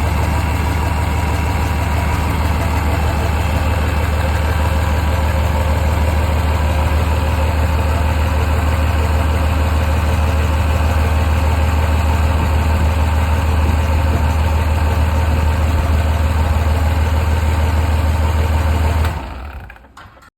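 Doosan 160-horsepower marine diesel engine idling steadily, then shut off about nineteen seconds in and running down within a second.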